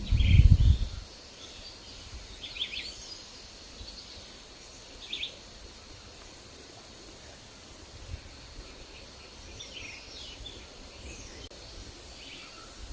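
Forest ambience: scattered short bird chirps every second or two over a steady high hiss, with a low rumble of wind in about the first second.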